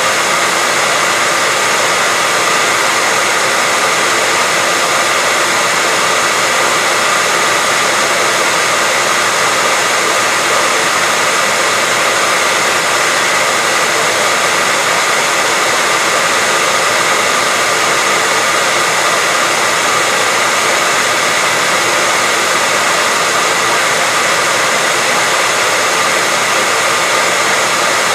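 Hairdryer running steadily: a loud, even rush of air with a faint steady whine in it, unchanging throughout.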